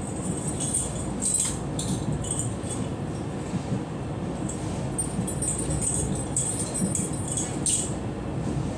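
Passenger train carriage running along the line, a steady low rumble overlaid by irregular high jingling rattles.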